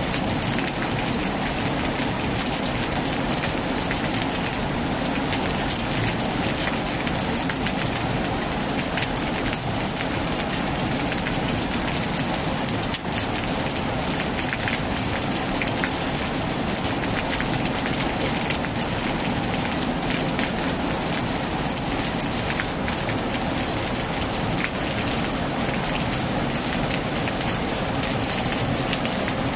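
Heavy rain falling steadily, a dense, even downpour with the patter of individual drops striking throughout.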